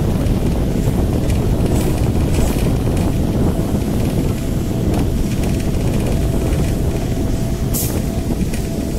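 Onboard running noise of an electric multiple unit suburban train arriving at a station: a steady deep rumble of wheels on rail with a faint steady whine. A brief high hiss comes about eight seconds in.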